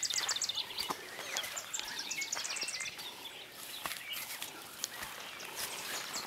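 A bird calling in quick runs of high chirps, once at the start and again about two seconds in, over footsteps and rustling brush.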